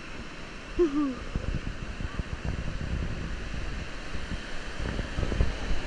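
Wind buffeting the action camera's microphone over the wash of breaking surf from a set of big waves. A short rising-then-falling vocal exclamation comes about a second in.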